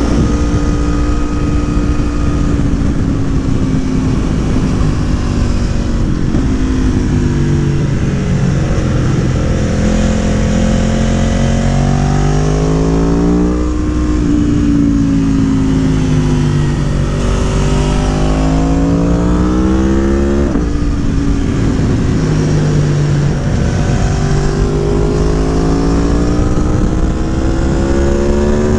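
Aprilia Tuono Factory motorcycle engine with a Gabro Racing Stage 3 tune, revving up and easing off repeatedly while being ridden through turns. Its pitch climbs in long pulls and drops sharply once, about 20 seconds in.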